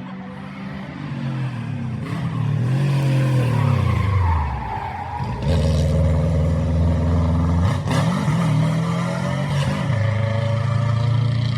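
A rally car's engine closes in and gets louder, then its pitch drops as it brakes for the corner. About halfway through it accelerates hard away, shifting up once or twice with a sharp crack near a shift, and the tyres scrub and squeal.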